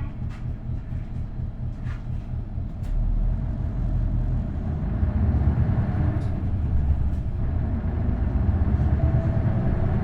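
V8 diesel engine of an Isuzu Erga city bus running, heard from inside the bus, with a manual gearbox. The rumble steps up in loudness about three seconds in and again around five seconds in as the engine takes more load.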